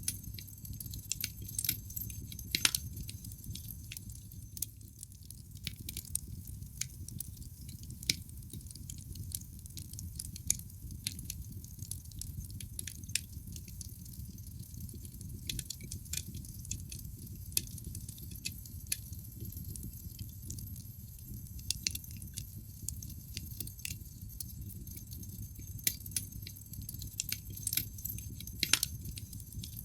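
Wood fire crackling in a fireplace: irregular sharp pops and snaps from the burning logs over a low steady rumble of the flames, with a few louder pops.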